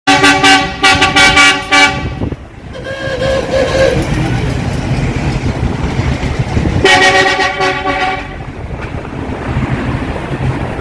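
A loud multi-tone horn sounding in a quick run of short toots, then one longer blast about seven seconds in, over a steady low engine rumble.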